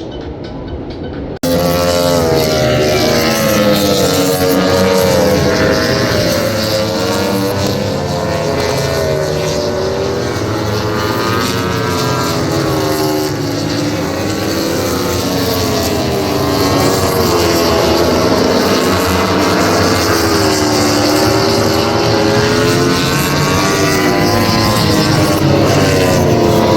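MotoGP racing motorcycle engines at race pace, their pitch rising and falling over and over as the bikes accelerate, shift and brake, cutting in abruptly about a second and a half in.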